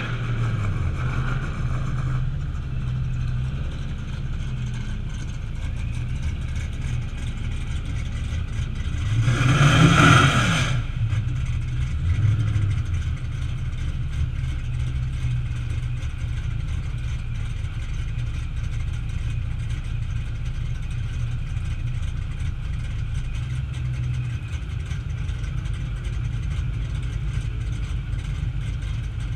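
A car engine running at low revs with a steady low rumble. About ten seconds in, a loud vehicle swells past and fades away.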